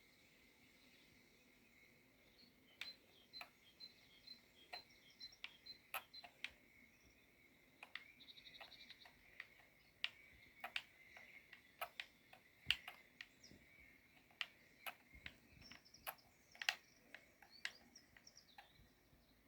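Near-silent background with a bird chirping a short, even run of faint high notes, a faint steady high hum and scattered sharp clicks.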